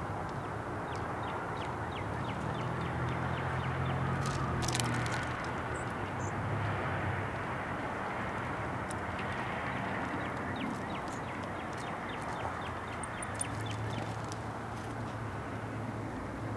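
Steady outdoor background with a low rumbling hum, like distant traffic, under runs of faint rapid ticks and a few brief high bird chirps.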